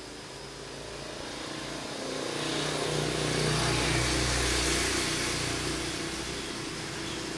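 A motor vehicle passing by: engine and road noise grow louder to a peak about three to five seconds in, then ease off.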